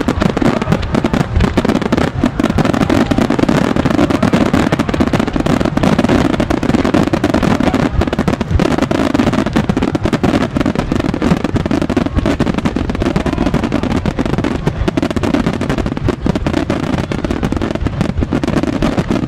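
Fireworks display going off in a dense, unbroken barrage: many bangs and crackles overlapping with no gaps.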